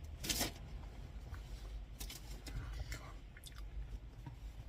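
A person chewing food with the mouth close to the microphone: a few short, soft crunching and smacking sounds, the loudest about a third of a second in.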